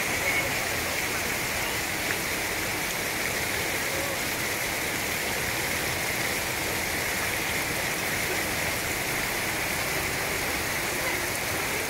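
Heavy rain, with water pouring off a roof gutter into a downpipe's rainhead: a steady, unbroken rushing of falling and splashing water.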